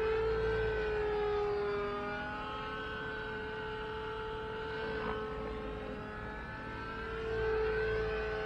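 O.S. 91 glow engine of an RC helicopter running in flight, a steady whine whose pitch and loudness swell at the start and again near the end and sag slightly in between. It is flying without the governor, so the rotor speed drifts with load.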